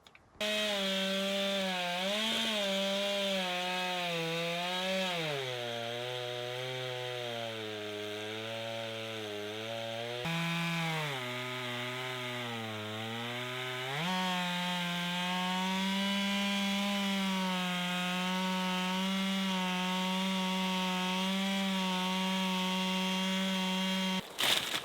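Two-stroke chainsaw on a chainsaw mill ripping a log lengthwise. The engine runs at high speed, and its pitch drops markedly twice for a few seconds as the cut loads it down, then holds steady at high revs until it cuts off near the end.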